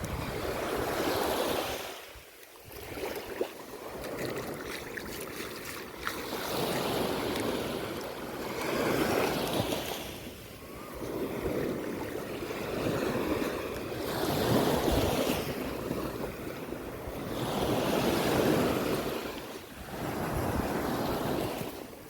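Sea waves breaking and washing up a sandy shore, the surf swelling and falling away every few seconds, with wind gusting across the microphone.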